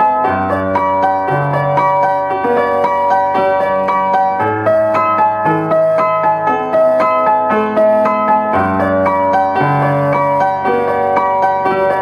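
Piano playing a slow piece: a low bass note changes about every four seconds under a melody of held notes that ring on into each other.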